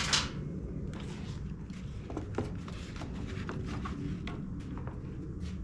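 Light clicks and taps of hand tools and small metal engine parts being handled on a workbench, opening with one louder, brief clatter, over a steady low background hum.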